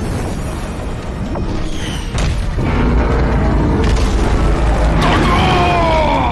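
Dramatic score under heavy, booming battle effects: a deep rumble that swells louder about two seconds in, with a few tones sweeping downward near the end.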